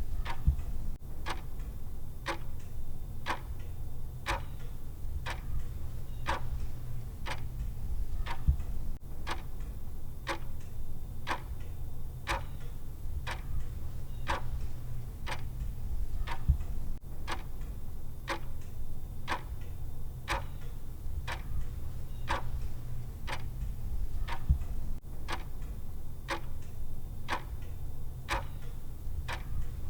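Clock tick sound of a countdown timer: steady, evenly spaced ticks over a constant low hum.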